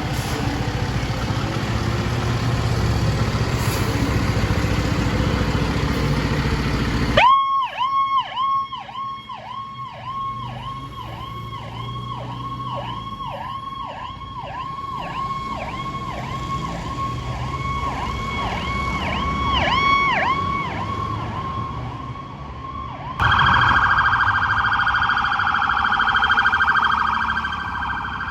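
A loud, low vehicle rumble. About seven seconds in it gives way to an emergency vehicle's electronic siren in a fast yelp, sweeping about twice a second. Near the end it switches to a higher, rapidly warbling siren tone.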